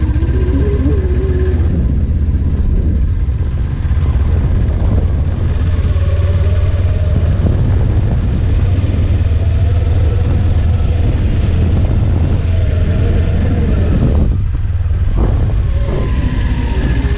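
Kawasaki Ninja 400 parallel-twin engine running at low speed, its revs gently rising and falling, under a steady heavy low rumble. The higher sounds drop out briefly about three-quarters of the way in.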